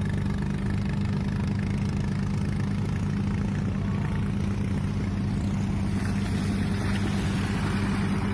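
Boat engine running steadily at a constant speed, a low, even engine note with noise above it.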